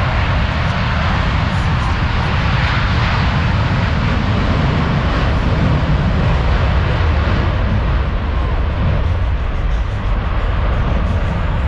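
Blue Angels F/A-18 Super Hornet jets flying a display, their engines making a loud, steady roar with a deep rumble underneath.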